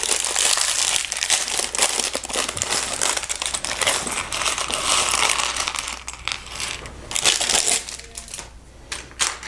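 Plastic Lego parts bag crinkling steadily as it is handled and opened, with small plastic pieces clicking; the crinkling thins to a few scattered clicks near the end.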